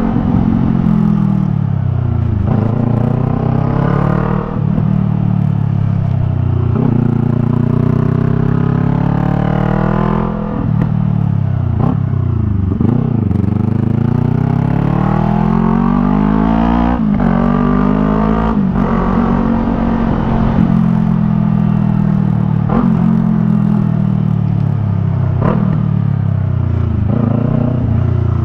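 Yamaha MT-03's parallel-twin engine through a Jeskap R3 Cup aftermarket exhaust, ridden hard: the engine note rises again and again under acceleration, with short breaks at the gear changes, and falls away as the throttle closes.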